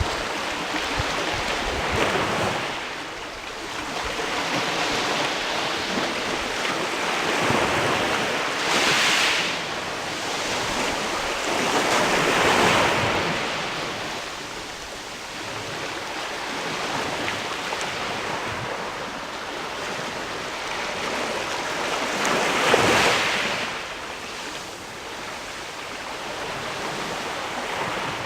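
Sea waves washing against a rocky shore, a steady rush that swells in slow surges every few seconds. The biggest swells come about a third of the way in, just before the middle, and again near the end.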